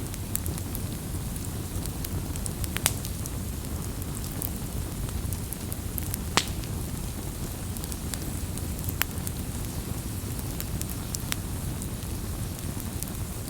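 Wood campfire burning: a steady low rumble of flames with scattered sharp crackles and pops, the loudest pop about six seconds in.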